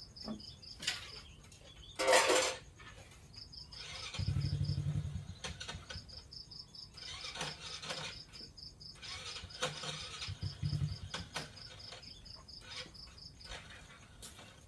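Insects chirping in a steady, evenly pulsing high trill, with a sudden loud noisy clatter about two seconds in and brief low rumbles around four seconds and again near eleven seconds.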